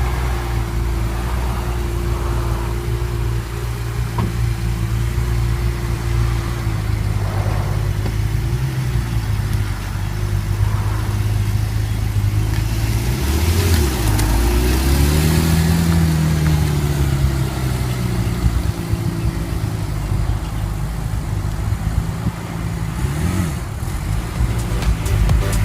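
Sports car engine idling through its exhaust, revved up and back down once around the middle, with a short blip near the end.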